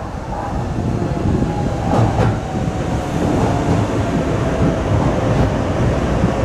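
Docklands Light Railway train pulling into the platform and passing close by, its wheels rumbling on the rails and growing louder. A few clicks come about two seconds in, and a steady whine joins the rumble about halfway through.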